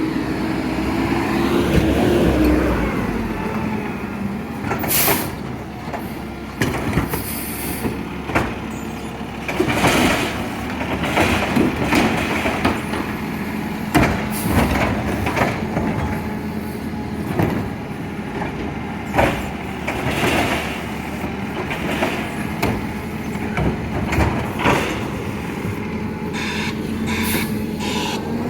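Garbage truck running with a steady engine or pump tone that rises in pitch near the start and again at the end, with air-brake hisses and repeated knocks and clanks.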